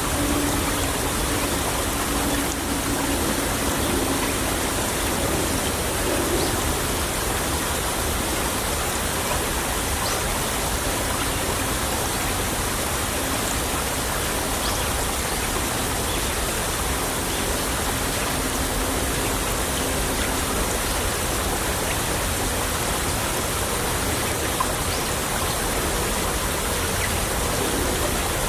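A small stream flowing over stones, a steady, even rush of water.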